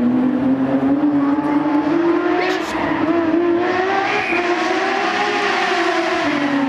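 A car engine at high revs, its pitch climbing slowly and steadily for several seconds, then easing off slightly near the end.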